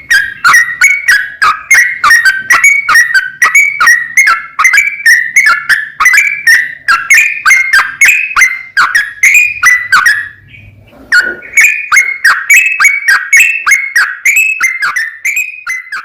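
Yellow-vented bulbul (trucukan) singing in a fast, unbroken run of short, loud whistled notes, about three a second, with a break of about a second around two-thirds of the way through.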